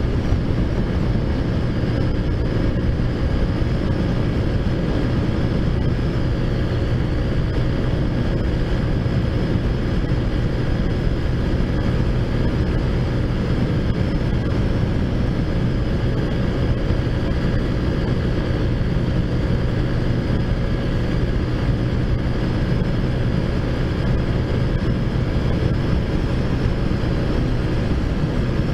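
Taotao Zummer 50cc four-stroke scooter engine running at a steady cruising speed while riding, with wind noise on the microphone.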